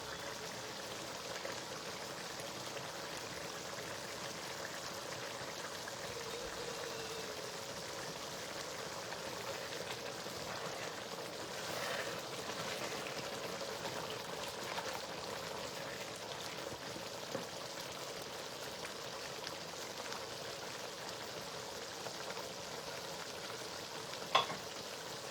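Spinach stew in red oil sizzling steadily in the pot as it cooks, with one short sharp clink about a second before the end.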